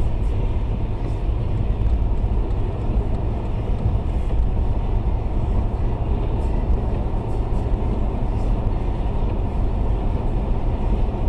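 Steady road noise inside a moving car on a salted highway: tyre and engine rumble, heaviest in the low end, with no change.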